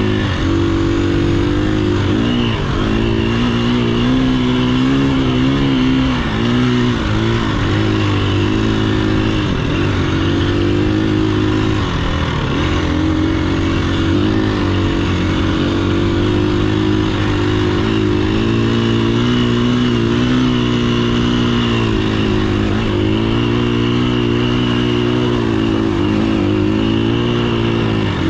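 Dirt bike engine running steadily, its pitch rising and falling a little with the throttle.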